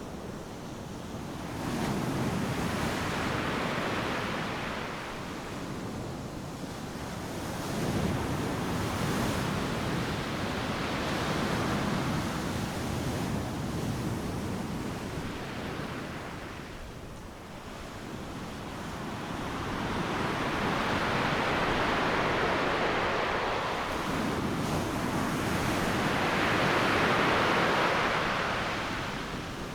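Ocean surf: waves breaking and washing up a sandy beach, the rushing noise swelling and fading as each wave comes in, with several big surges.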